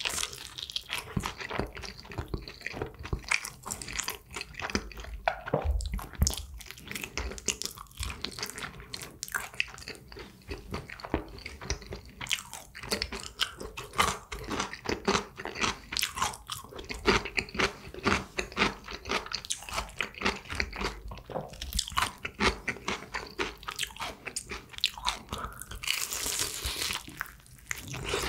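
Close-miked chewing and crunching of crispy honey-glazed fried chicken (Kyochon Honey Combo), with many small crackles of the fried coating. Near the end comes a louder crunch as a new piece is bitten into.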